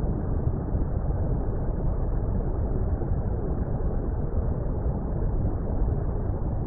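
Steady, deep water rumble of an underwater ambience, muffled, with no high end.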